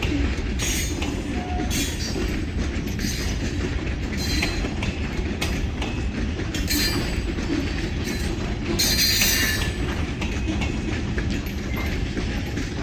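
Freight train rolling past: a steady low rumble of steel wheels on rail, with short high wheel squeals and clacks every second or so, the longest about nine seconds in.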